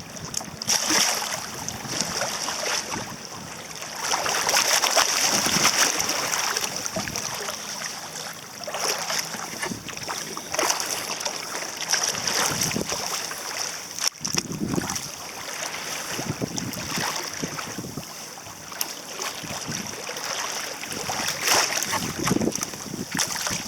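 Water rushing and splashing along a sailing kayak's hull as it runs through choppy waves, with wind buffeting the microphone. The rush swells and fades every few seconds as waves pass.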